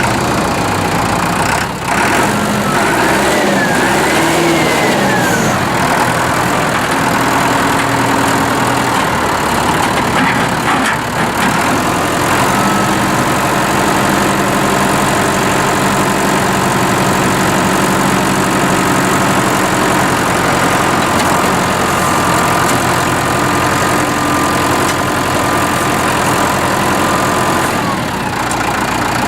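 2005 FarmTrac 785DTC tractor's four-cylinder water-cooled Deutz diesel engine running. Its pitch shifts up and down during the first several seconds, then holds steady.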